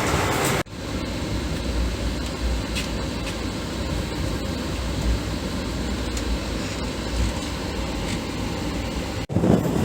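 Passenger train running, a steady low rumble with faint scattered clicks. The sound cuts off sharply about half a second in and again near the end.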